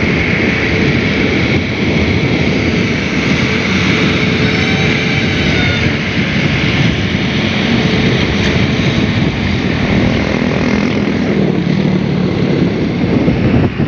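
Long-arm excavators' diesel engines running steadily, with a thin steady whine over the engine noise.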